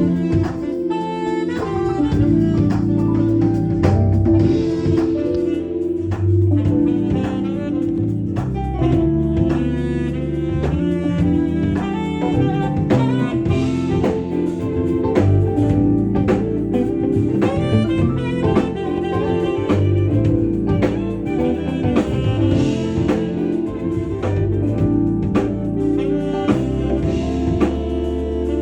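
Live smooth jazz band playing: a saxophone carries the melody over a drum kit keeping a steady beat and a bass line.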